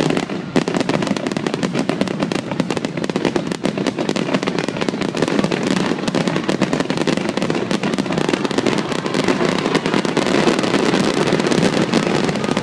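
Fireworks finale barrage: a continuous, dense stream of aerial shells bursting in rapid succession, the bangs and crackle running together with no pause.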